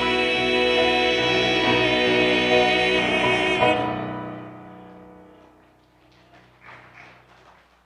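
Vocal group with piano holding the final chord of a gospel song on the word "need". The chord cuts off sharply about halfway through and dies away over the next couple of seconds.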